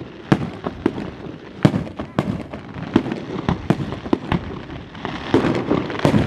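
Fireworks going off: a fast, irregular run of bangs and crackles, several a second.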